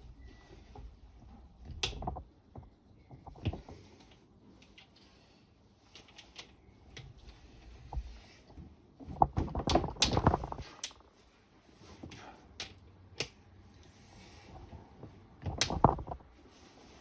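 Hand tools working on the bottom-end bolts of a stripped engine: scattered metallic clicks and knocks, with a louder spell of rattling knocks about nine to eleven seconds in and another knock burst near the end.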